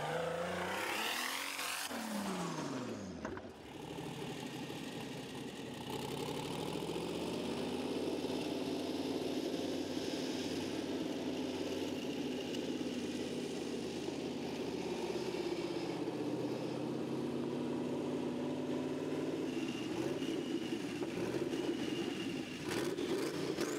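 Engine of a drag-racing tractor revving up and down a couple of times, then running steadily at a high, even pitch for most of the stretch, lifting a little near the end.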